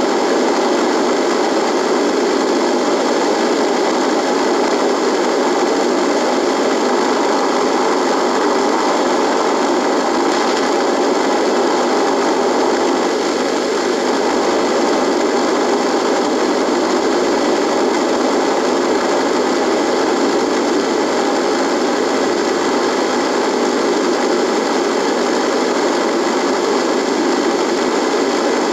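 A radio buzzing: steady, even static with a few faint constant tones in it.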